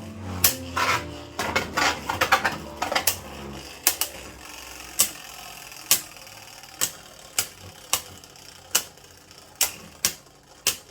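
Two Beyblade Burst spinning tops, Flame Pandora Everlasting and a stamina-type opponent, clashing in a plastic stadium: sharp plastic clacks at irregular intervals, about one a second, as the tops collide while spinning.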